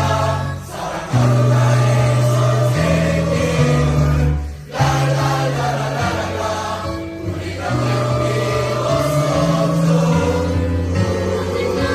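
A choir sings a song with instrumental accompaniment, holding long notes over a steady bass line. The music dips briefly about half a second in and again about halfway through.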